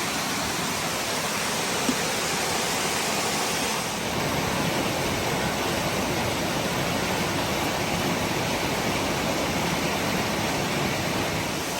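Steady rush of flowing water from a creek or small waterfall, an even unbroken hiss.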